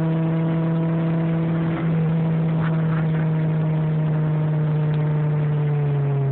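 Honda Prelude's four-cylinder engine heard from inside the cabin, running steadily at high road speed. Its pitch sinks slowly near the end as the revs drop.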